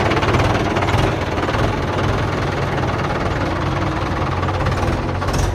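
Heavy diesel engine running steadily with an even, rapid knocking beat.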